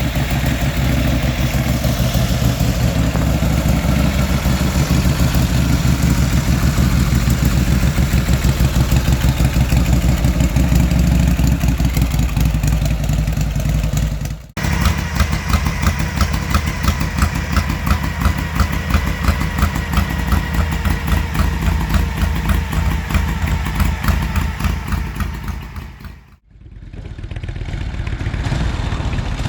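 Motorcycle engine running with a rapid, even exhaust beat. The sound breaks off sharply about halfway through and again near the end, then carries on.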